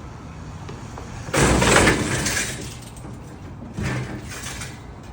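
A loud crash about a second and a half in, lasting about a second, then a smaller clatter about four seconds in: a motorcycle being pushed up a steep loading ramp into a lifted truck comes down with its ramp.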